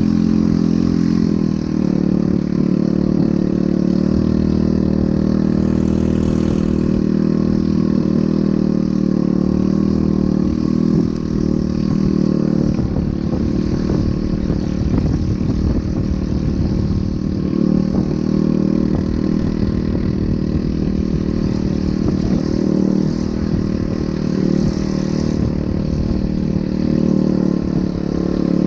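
ATV engine running steadily under way. Its note turns rougher and more uneven about halfway through.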